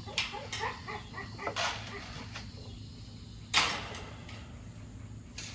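Dogs making short faint calls in the first second or two, amid a few sharp knocks and clatters; the loudest clatter comes a little past halfway.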